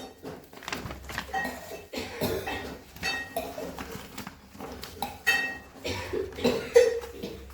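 Notebook paper being handled and folded, with irregular crisp rustles and creasing, and several short clinking knocks.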